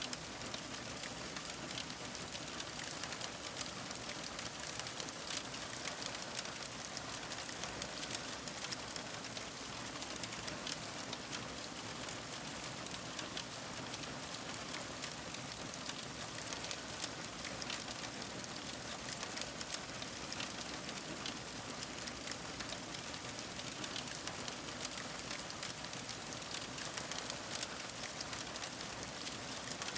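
Fire crackling: a steady hiss packed with many small, quick pops and snaps, even throughout.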